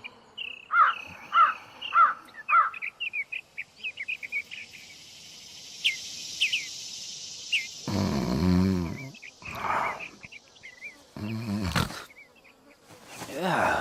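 Outdoor nature ambience: a bird call repeated four times, then quicker high chirps over a steady insect buzz. A deeper sound with several stacked tones comes in about eight seconds in and again near the end.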